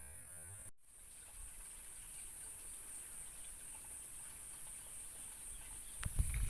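Insects chirring steadily in a high, slightly pulsing band, cutting out briefly under a second in. Near the end a sharp click is followed by low thumps and rumble.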